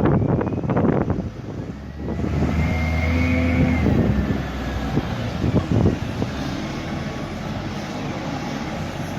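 Heavy diesel earthmoving machinery working: a burst of clanks and knocks, then a diesel engine running up to a steady drone with a whine over it, and a few more knocks later.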